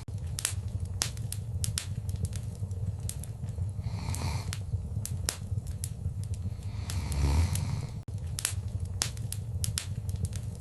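Wood fire crackling in a fireplace: sharp, irregular pops and snaps over a steady low rumble of flames, with a louder hissing flare about seven seconds in.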